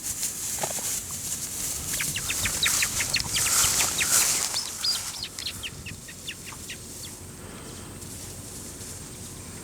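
A bird calls in a quick run of short, high, falling chirps for a few seconds over a hissing rush, then fades near the end.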